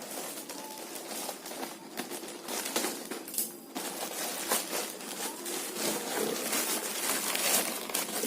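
Plastic parcel packaging being opened and handled by hand: irregular crinkling with many small clicks and taps.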